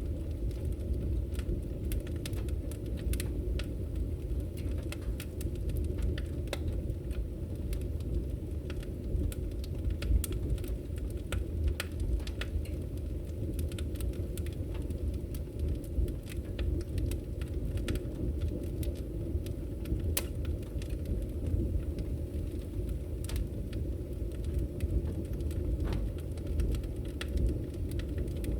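Firewood burning, a steady low rumble of the fire with many irregular sharp crackles and pops from the wood.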